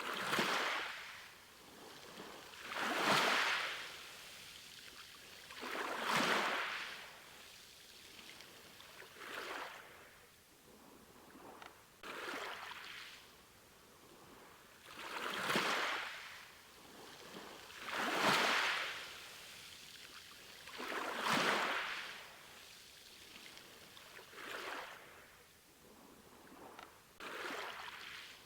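Sea waves washing in one after another, each a rising and falling hiss about every three seconds.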